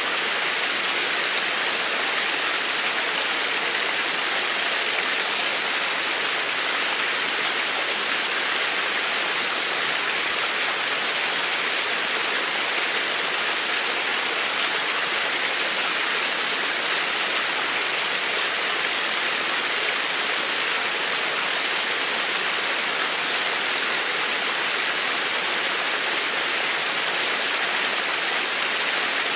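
Babbling creek: a steady, even rush of running water.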